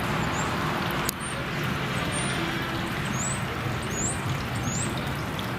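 Steady outdoor rumble of road traffic, with a sharp click about a second in and three short high chirps in the second half.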